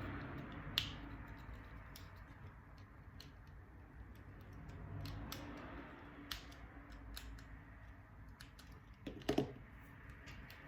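Scattered small clicks and taps of hands handling small parts and tools, with a sharper click just under a second in and a short cluster of louder knocks near the end, over a low steady hum.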